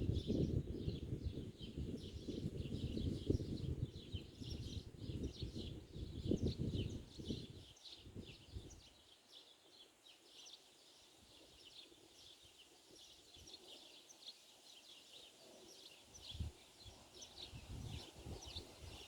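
Small birds chirping: many short, high chirps overlapping throughout. A low rumbling noise fills roughly the first eight seconds, drops away, and returns faintly near the end.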